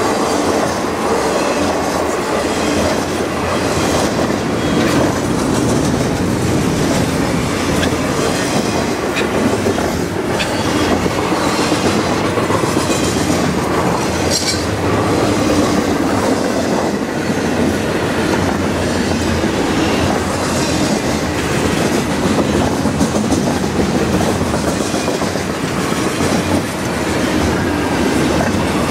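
Double-stack intermodal container train's well cars rolling past: a steady, loud rumble of steel wheels on rail with repeated clicks over rail joints, and a brief high wheel squeal about halfway through.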